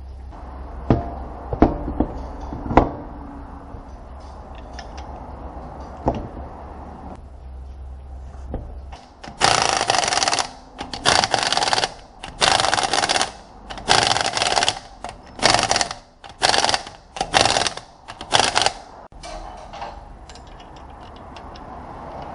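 A tool run in about eight short bursts of a few tenths of a second to a second each, with a few sharp metallic knocks a few seconds before them.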